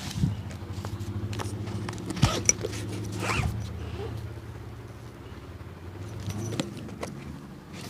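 Hand tools working on a shoe: rasping and rubbing strokes with a few sharp knocks and small clicks, over a steady low hum.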